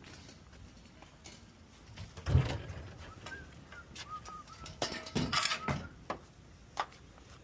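Thumps and knocks of a door-less refrigerator being handled and laid down. The loudest thump comes about two seconds in, with a few short squeaks after it and a cluster of clattering knocks around the middle.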